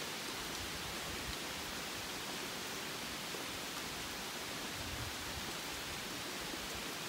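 Steady rain falling on the forest, an even hiss.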